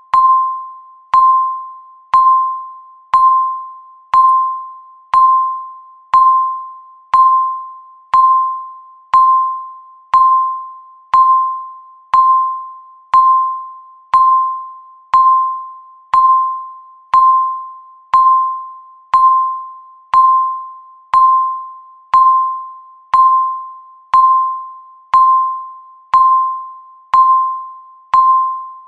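Countdown timer ticking: a short ringing ding about once a second, each fading away before the next, in a steady unbroken rhythm.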